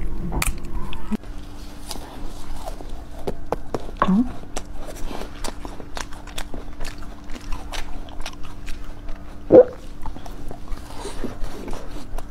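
Close-miked eating sounds: biting into and chewing juicy red pomelo pulp, with many small wet clicks and smacks of the mouth and a few louder short mouth noises, the loudest a little past the middle.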